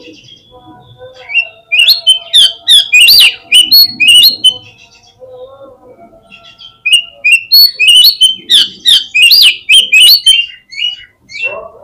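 Oriental magpie-robin (kacer) singing as a lure call. There are two loud runs of quick, varied, sharply inflected chirps and whistles, one starting about a second and a half in and the other about seven seconds in, with fainter lower whistling notes underneath.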